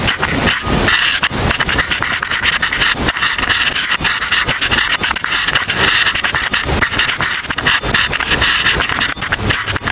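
Pen or pencil writing on paper: rapid, continuous scratching strokes.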